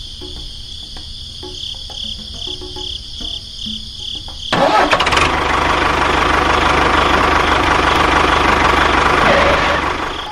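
Crickets chirping in a steady pulsing trill, cut off about four and a half seconds in by a sudden loud engine noise that runs on steadily and fades near the end.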